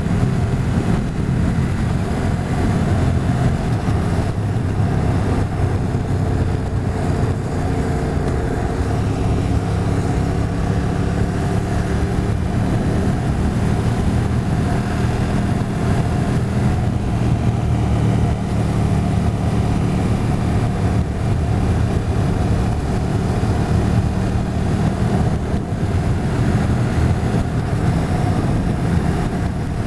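Motorcycle engine running steadily on the move, with an even rush of noise over it; its pitch drifts slightly up and down in the first third, then holds.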